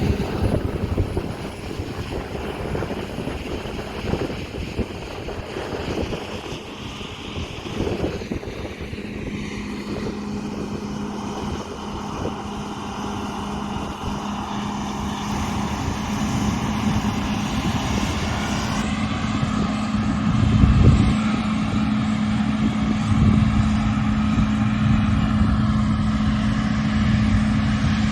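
Heavy harvest machinery running steadily: combine harvester and tractor engines working in the field, with a steady engine drone and a louder low rumble a little after two-thirds of the way through.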